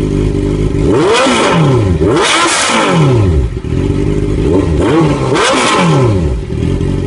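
Honda CBR650F inline-four motorcycle engine idling through a handmade exhaust muffler, revved up twice and settling back to idle after each rev.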